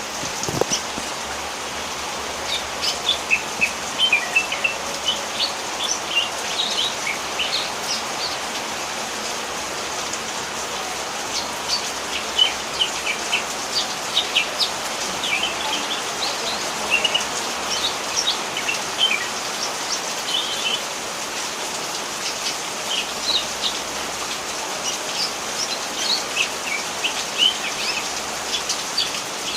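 Cucak hijau (green leafbird) chattering: quick runs of short, high chirps and whistled notes, over a steady hiss of falling rain.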